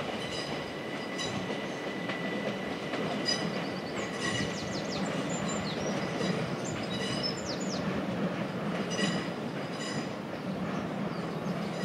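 Southeastern electric multiple-unit train running slowly on the curved flyover, wheels squealing in short high-pitched squeals and quick glides over a steady rumble and wheel clicks.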